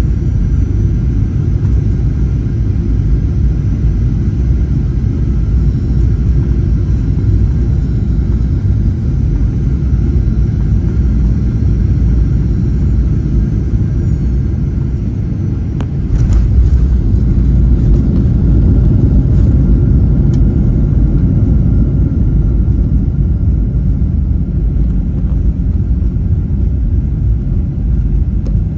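Steady low rumble inside the cabin of a Boeing 737-800 taxiing on the ground, with faint steady tones above it. A sharp click comes about sixteen seconds in, after which the rumble is slightly louder.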